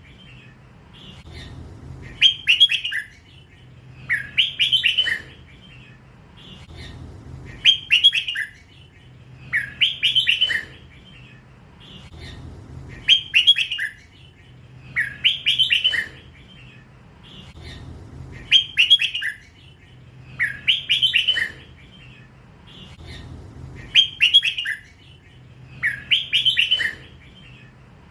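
A young hybrid red-whiskered bulbul singing in the 'lak wai' song style, repeating a short, clear phrase about every two and a half seconds, ten times over.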